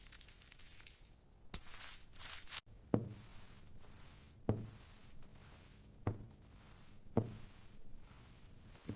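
Five dull thumps about a second and a half apart, each with a short ring, in a small room.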